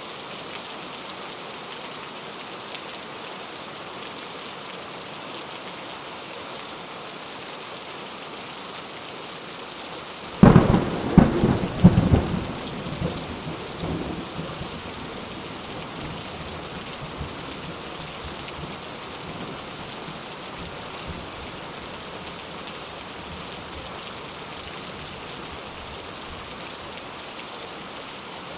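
Steady rain falling, with a thunderclap about a third of the way in: a sudden sharp crackle of several cracks over a couple of seconds, fading into a rumble.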